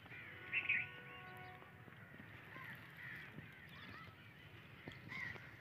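Faint outdoor background with scattered short bird calls. A faint held tone sounds in the first second or so.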